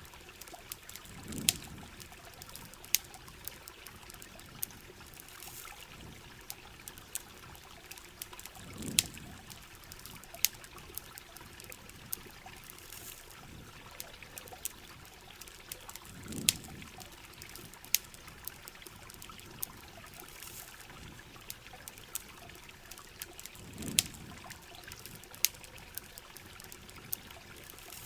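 Heavy rain with trickling, pouring water, scattered with sharp pops and ticks typical of a crackling campfire or drops striking a hard surface. A low gurgling swell comes back about every seven and a half seconds, four times.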